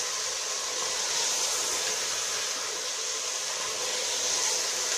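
Bitter gourd and beef sizzling steadily in hot oil in an aluminium pot as it is stirred with a ladle.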